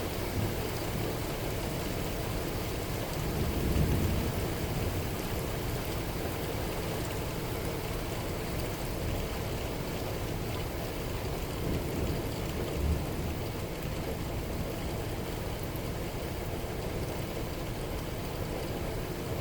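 Steady heavy rain falling, an even hiss, with a brief low rumble swelling about four seconds in.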